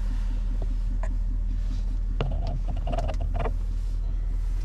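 Steady low rumble of the Silverado 3500's 6.6-litre Duramax V8 turbodiesel idling, heard from inside the cab, with a few faint clicks.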